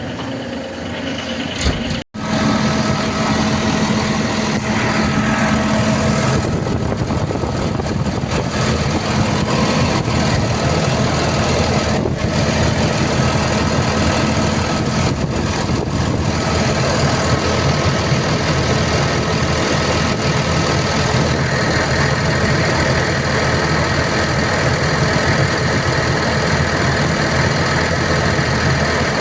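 Diesel engine of a Volvo EC250ENL tracked excavator running steadily. A brief cut-out about two seconds in is followed by a louder, steady run.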